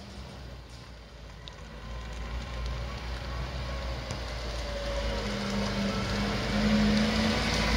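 A Lada saloon's engine running as the car drives slowly up towards the listener, growing steadily louder, with a low engine hum coming in and out near the end.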